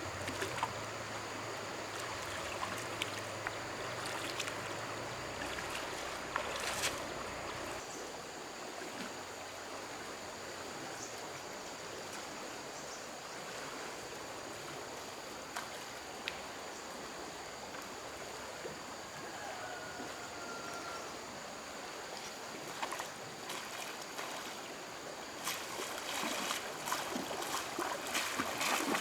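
Stream water rushing steadily, with a low hum underneath that stops about eight seconds in. Scattered small knocks and clicks come in more often near the end.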